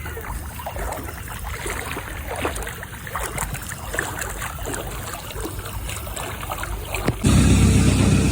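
Floodwater sloshing and splashing in irregular strokes as people wade through it waist-deep. About seven seconds in, it cuts abruptly to a louder, steady low rumble.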